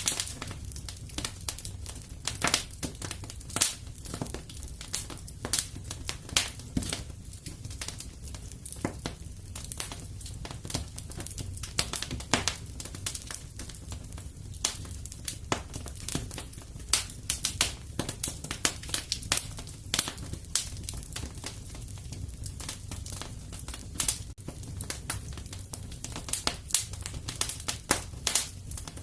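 Wood fire crackling and popping in a fireplace: many irregular sharp pops over a steady low rumble of the burning.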